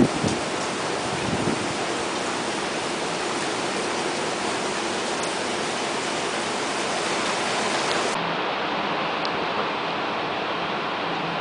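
Typhoon wind and rain making a steady rushing noise, with a short buffet of wind on the microphone right at the start.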